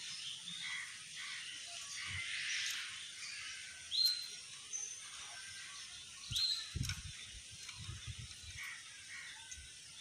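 Birds chirping, with two short, sharp whistled calls about two and a half seconds apart standing out as the loudest sounds. A few low bumps follow the second call.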